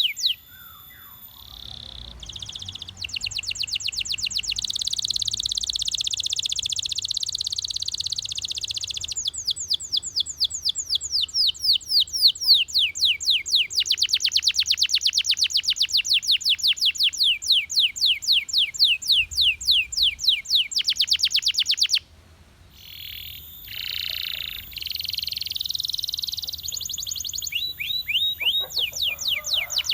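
Belgian canary singing a long song of fast trills: runs of rapid repeated notes and quick sweeps, phrase after phrase at changing speeds, breaking off briefly about 22 seconds in before starting again.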